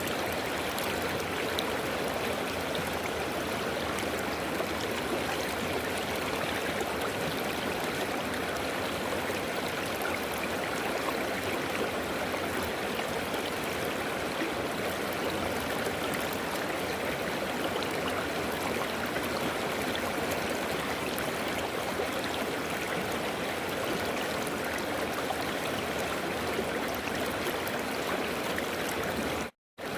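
River water flowing over rocks in a steady rush and gurgle. It cuts out completely for a split second near the end, then resumes.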